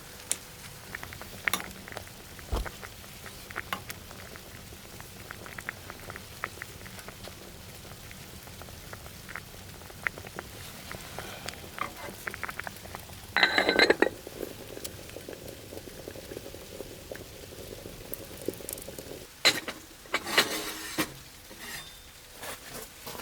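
Liquid bubbling in a pot, with many small pops over a soft steady hiss. There is a brief louder clatter a little past the middle, and a few more near the end.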